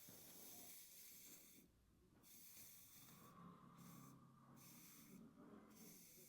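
Hairbrush drawn through hair in long swishing strokes, each about a second long, with short pauses between them. A faint low hum sits under the middle strokes.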